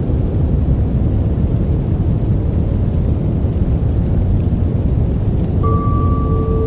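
Steady white-noise sleep track, a deep even hiss weighted toward low pitches. Near the end a soft steady tone of two pitches comes in over it.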